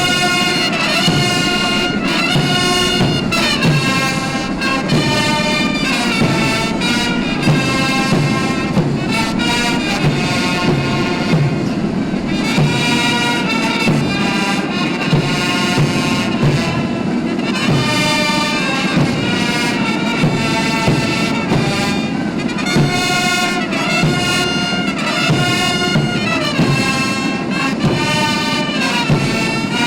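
Military band playing, led by brass, held notes moving in steps over a steady beat.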